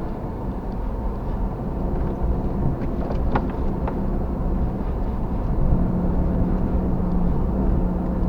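Overland vehicle driving on a dirt road: a steady engine and tyre rumble, with a few short knocks or rattles about three to four seconds in.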